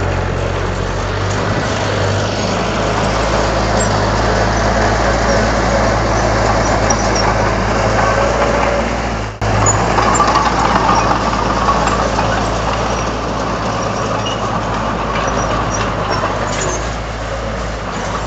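Komatsu D31 bulldozer's diesel engine running steadily under work, with a brief break about halfway through.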